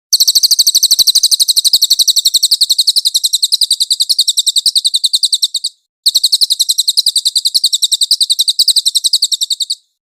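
Cage songbird singing two long, very rapid, high-pitched trills of evenly repeated notes, with a short break just before the second.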